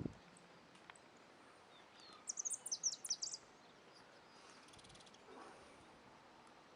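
A small bird chirping: a quick run of short, high-pitched chirps a little over two seconds in, over faint steady background hiss. A faint rapid high ticking follows briefly about halfway through.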